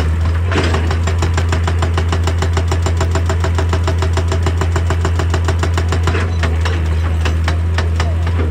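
Excavator-mounted hydraulic breaker hammering rock in a fast, even series of blows, about nine a second, stopping about six seconds in. Under it the excavator's diesel engine runs steadily.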